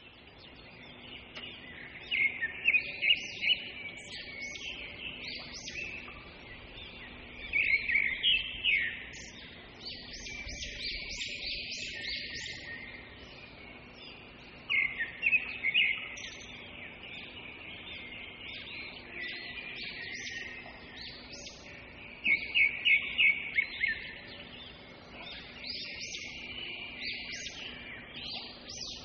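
A bird chirping in recurring bursts of quick, high notes, roughly every six or seven seconds, over a faint steady hum.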